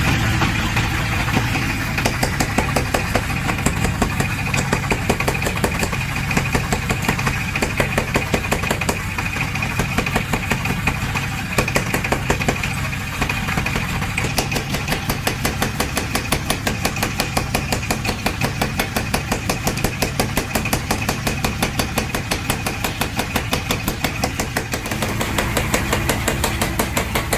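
Mechanical power hammer running, its motor humming steadily under a rapid, even train of hammer blows on iron, several strikes a second.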